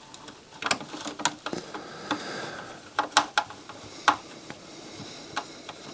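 Light, irregular clicks and taps of hand tools, screws and metal parts being handled during reassembly of a CD player's chassis.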